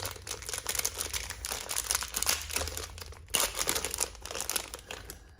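Plastic packaging being crinkled and rustled by hand as it is opened, with some tearing, in short irregular bursts that fade near the end.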